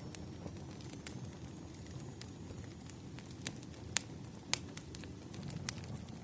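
Wood fire crackling: irregular sharp snaps and pops over a steady low rumble, the loudest snaps about four seconds in and again half a second later.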